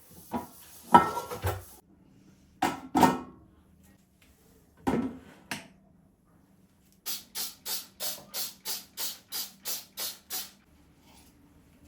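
Household objects knocked and handled in a few separate clatters, then a quick, even run of about thirteen short noisy strokes, about four a second, over a faint steady hum.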